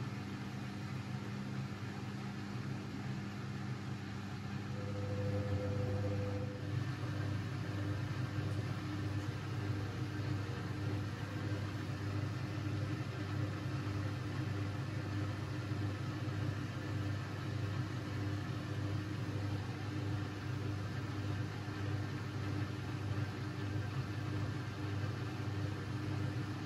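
Siemens Siwamat 6143 washing machine running with a steady low hum. About five seconds in it grows louder, with a brief higher tone, and then runs on steadily.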